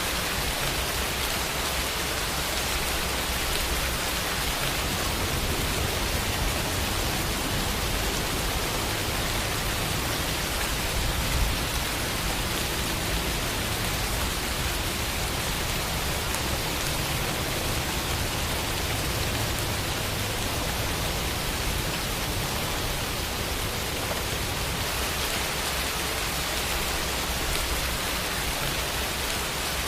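Steady, heavy rain falling, a dense even hiss. A slightly louder drop or patter comes about eleven seconds in.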